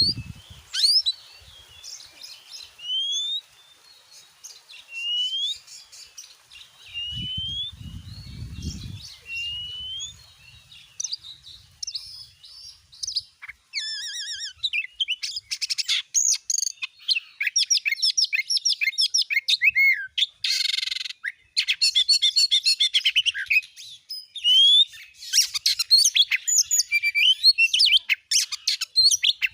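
Oriental magpie-robin singing: first a series of separate rising whistles, then from about halfway a fast, dense run of varied phrases. There is a brief low rumble about seven seconds in.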